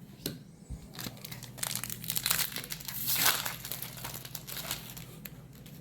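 Foil booster-pack wrapper crinkling and crackling as it is handled and torn, loudest about three seconds in, with scattered small clicks around it.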